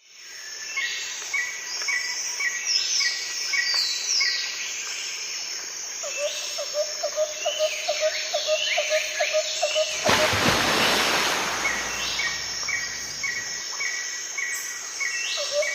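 Birds chirping in quick repeated calls, joined about six seconds in by a rapid pulsing insect-like call. A rushing hiss swells in about ten seconds in.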